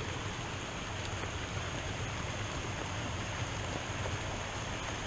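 Steady rush of running water from a rain-swollen creek in flood.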